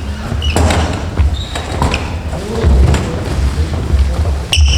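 Badminton doubles rally: a string of sharp racket hits on the shuttlecock and thudding footfalls on the court, echoing in a large hall. A short high squeak comes near the end.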